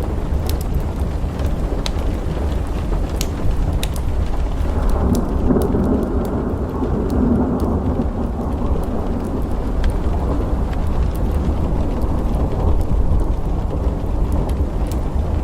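Steady rain with a low roll of thunder that swells about five seconds in and fades out about four seconds later. Scattered sharp clicks run through it.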